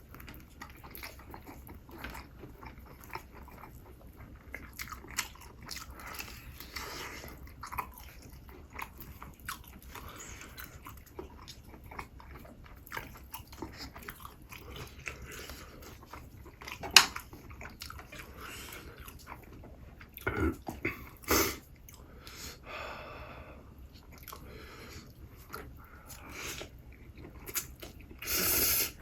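A person eating close to the microphone: steady chewing and biting with many small wet clicks and smacks, and a few louder crunches or bites, one sharp one about 17 seconds in, a pair around 20 to 21 seconds and a longer one near the end.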